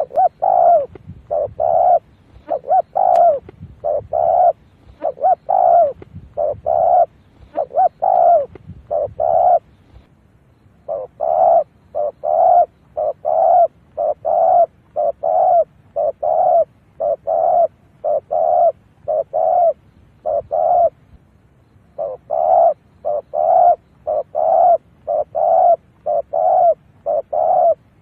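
Spotted dove cooing: short repeated coo notes, about two a second, with brief pauses about ten and twenty-one seconds in. This is a decoy call used to draw wild spotted doves in.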